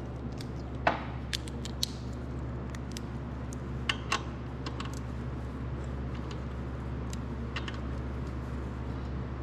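Hand tools clicking and tapping on metal, a few sharp light clicks at irregular intervals, while the tight connecting-rod cap bolts of a Kohler K241 single-cylinder engine are being worked loose. A steady low hum runs underneath.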